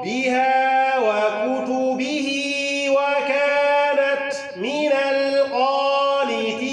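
A man chanting Quranic recitation in a melodic tajweed style, drawing out long, steady held notes over several phrases.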